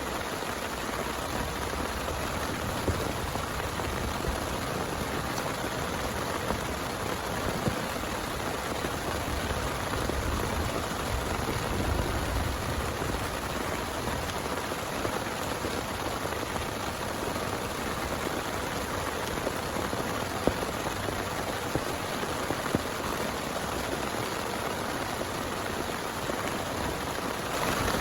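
Steady rain falling, with a few louder single drop hits standing out from the patter.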